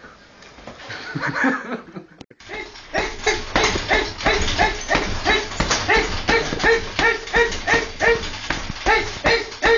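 A dog barking in short, high yelps at a fast, even pace of about two to three a second, starting a couple of seconds in.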